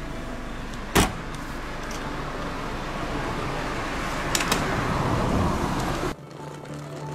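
Steady vehicle cabin noise, most likely inside an airliner, growing gradually louder. There is a sharp click about a second in and two quick clicks near four and a half seconds. About six seconds in it drops suddenly to a quieter hum.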